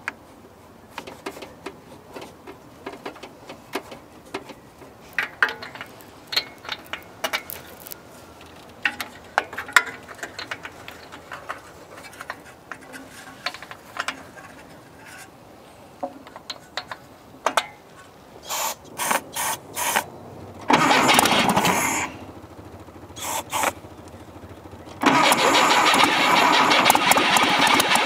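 Scattered small clicks and clinks of hand work, then the rebuilt engine of a 1966 Volkswagen Beetle is cranked in several short bursts and one longer try. Near the end it catches and keeps running steadily: a first start after the rebuild.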